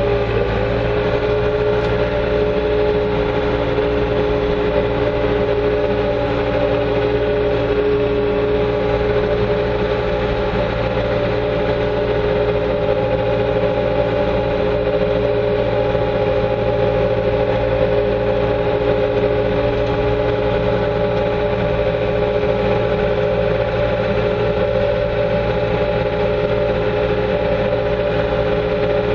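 Bobcat 2410 articulated loader running steadily, heard from inside its cab, with a steady whine whose pitch steps up right at the start and then holds.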